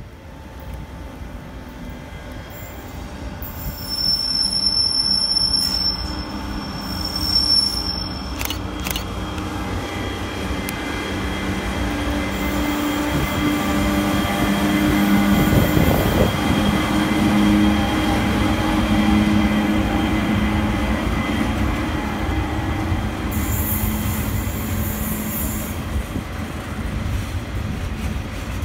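Coal train passing close behind an Aurizon 3700-class electric locomotive: a steady electric motor whine with several held tones over the rumble of wheels on rail, loudest as the locomotive goes by about halfway through. A high wheel squeal sounds from a few seconds in until about eight seconds.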